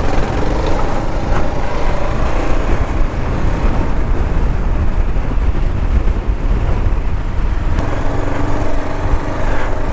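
Kawasaki KLR650's single-cylinder four-stroke engine running as the bike rides the trail, its pitch rising and falling with the throttle.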